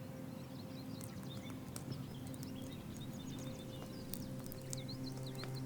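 Faint outdoor ambience: repeated short birdlike chirps, scattered sharp clicks or knocks, and a low steady hum underneath.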